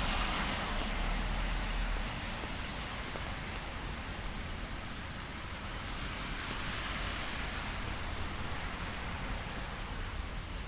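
Steady hiss of light rain on a city street, with wet-road traffic noise. A low rumble fades out over the first two seconds.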